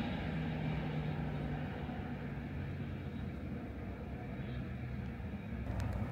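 Train running on the line: a steady low rumble with a low hum that sinks slightly in pitch. Near the end, wheel clicks over the rail joints begin.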